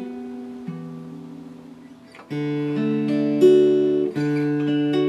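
Acoustic guitar being played: softer picked notes ring out, then about two seconds in, louder strummed chords follow, each left to ring for about a second.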